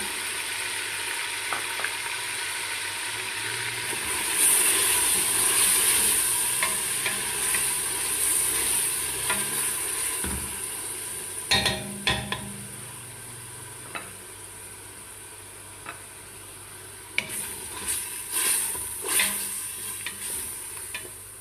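Beef chunks and chopped onion sizzling in oil and smen in a metal pot, stirred with a wooden spoon that knocks against the pot a few times. The sizzle is strongest in the first half and dies down later.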